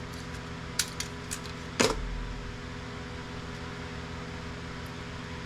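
Printer parts being handled during teardown: a few light clicks, then one louder knock just under two seconds in, over a steady fan-like hum.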